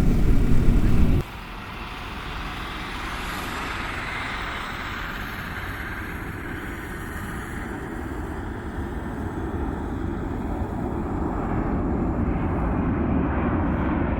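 Aircraft engine noise. A loud low rumble cuts off abruptly about a second in, followed by a steadier, quieter engine noise that slowly grows louder toward the end.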